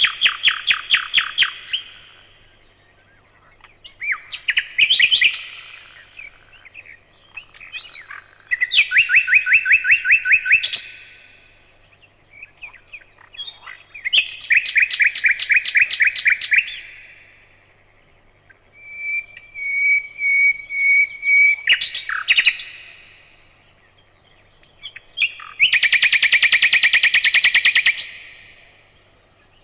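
Nightingale singing: loud phrases of rapidly repeated notes, about six of them, each lasting two or three seconds with short pauses between. One phrase in the middle is a drawn-out pure whistle.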